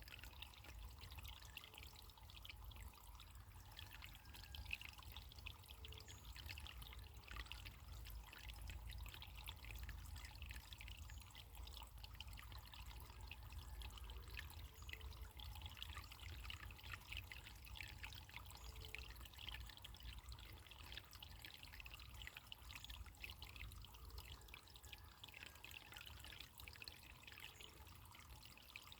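Faint running water trickling steadily, with a fine continuous splashing.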